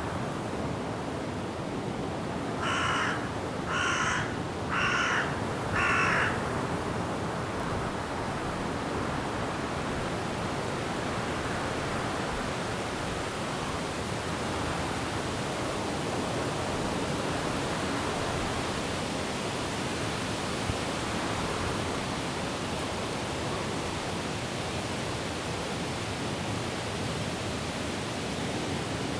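Steady rush of wind and rain through forest trees, with a crow cawing four times, about a second apart, a few seconds in.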